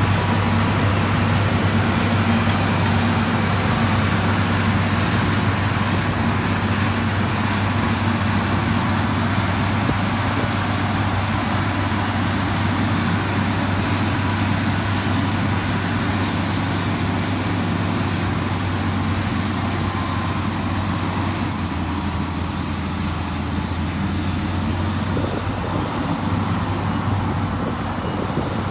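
Heavy construction machine's diesel engine running at a steady speed, with a constant low hum over a rough noise, growing slightly fainter in the last third.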